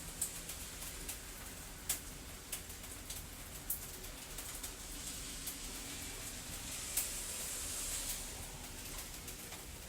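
Fireplace crackling: sharp, irregular pops over a steady rain-like hiss, which swells briefly about seven seconds in.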